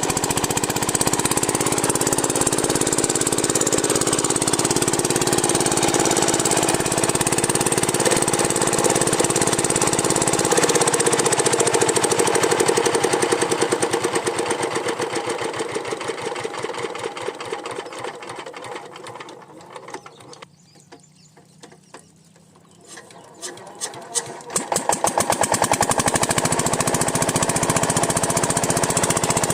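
Single-cylinder 8 hp diesel pump-set engine running steadily with an even, rapid firing beat. The sound fades to faint about two-thirds of the way in, then comes back up to full loudness a few seconds before the end.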